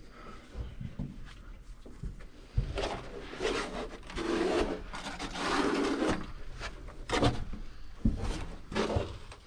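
Scraping and rustling of people moving through a cave passage: irregular rubbing scrapes and a few light knocks, the heaviest a few seconds in.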